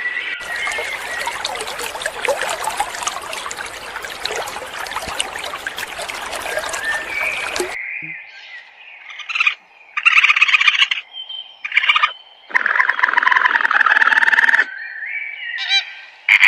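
Animal calls: a dense chorus of chirping calls for about eight seconds, which cuts off suddenly. A series of separate, louder pitched calls follows, each lasting a second or two.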